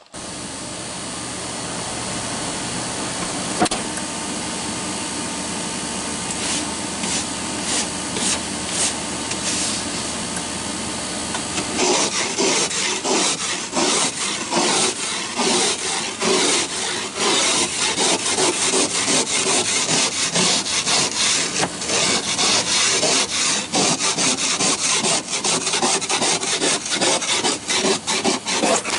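Snow and ice being scraped off a pickup truck's windows, with rapid back-and-forth scraping strokes from about twelve seconds in over a steady hum.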